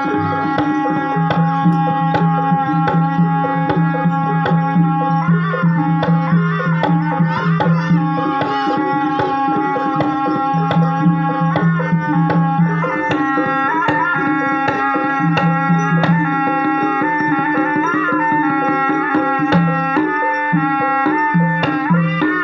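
Ebeg dance accompaniment music: rapid, continuous hand-drum strokes (kendang) over a sustained melody that bends in pitch and a low steady drone.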